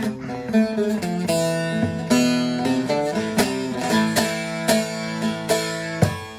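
Bağlama (Turkish long-necked saz) playing a melody in quick plucked notes, some held and ringing, with improvised flourishes added to the tune.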